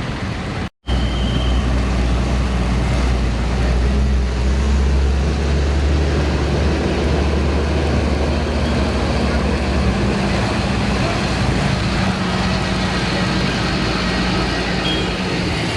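Roadside traffic with a heavy truck's diesel engine running close by, a deep steady drone that eases off about ten seconds in while other traffic noise goes on. The sound drops out for an instant about a second in.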